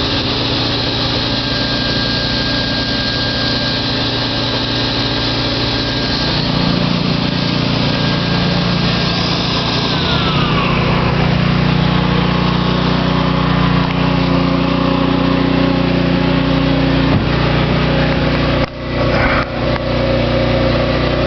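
Vintage Delta table saw's 1 HP, 3450 RPM Rockwell electric motor running steadily with no load, a continuous whine over a hum. About ten seconds in, the high tone glides down in pitch, and near the end the sound briefly dips a few times.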